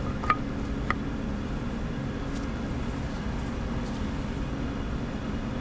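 Steady low background hum, like a fan or other machine running in a workshop, with a couple of faint light clicks about a third of a second and about a second in.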